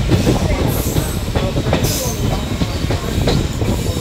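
Passenger train coaches running on the rails, heard from an open coach doorway: a steady rumble with irregular clacks as the wheels cross rail joints and points.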